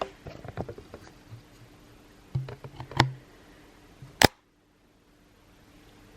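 Scattered light knocks and clicks of things being handled, with a louder knock about three seconds in. A sharp click about four seconds in is followed by abrupt dead silence.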